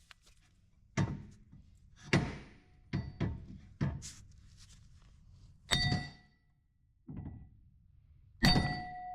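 About seven hammer strikes, spaced unevenly, knocking a rubbing tab out of the way. Several blows leave a short metallic ring.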